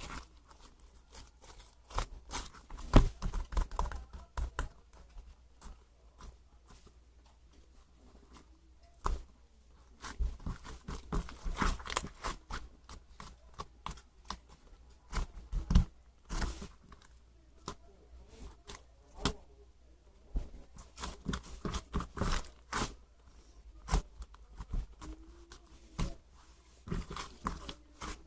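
Irregular close-up handling noises: tearing and crinkling, like paper or tape, with scattered sharp taps and clicks.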